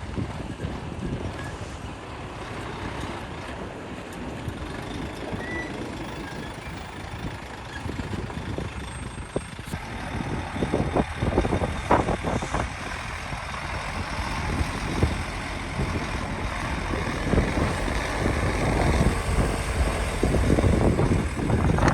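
Diesel engines of heavy earthmoving machinery running at a stone-fill site, with loose rock clattering about halfway through. The engine noise grows louder toward the end.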